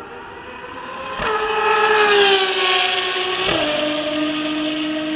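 Ferrari racing car's engine at speed, swelling loud about a second in and falling in pitch as it goes by, with a sudden change of note about three and a half seconds in, then running on at a steady lower note.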